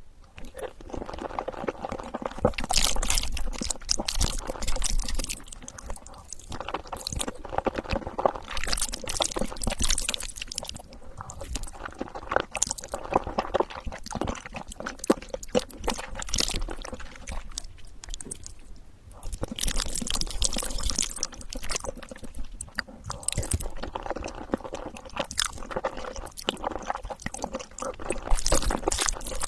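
Close-miked eating sounds: chewing and biting made up of many small, irregular clicks and crackles, with short lulls about six and eighteen seconds in.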